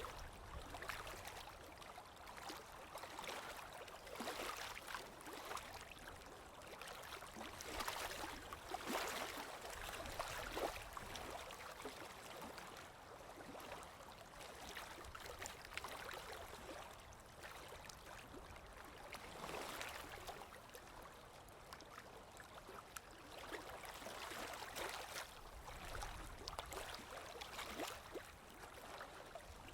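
Flowing water gurgling and splashing continuously with many small droplet-like splashes, swelling and easing every few seconds, like a small stream.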